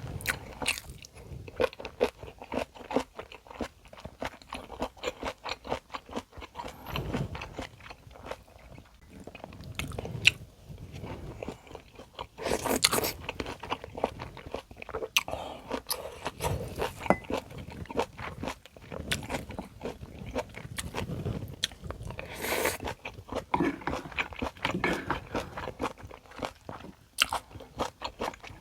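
Close-miked eating sounds: chewing and crunching mouthfuls of Korean home-cooked food, with many quick wet mouth clicks. There are louder, noisier stretches about 13 seconds in and again about 22 seconds in.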